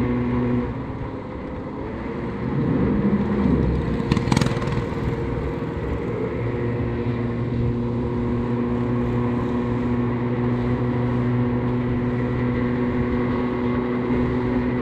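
Small motorbike engine running at a steady speed while being ridden, easing off about a second in and picking up again over the next few seconds. A single sharp knock comes a little after four seconds.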